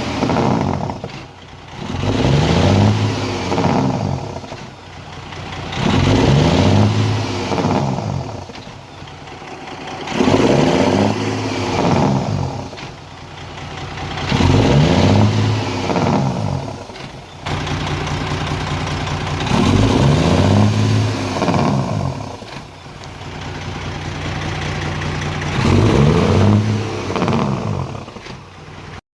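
Detroit 60 Series 14-litre diesel engine in a semi truck being revved and let back down to idle, six times, about every four seconds.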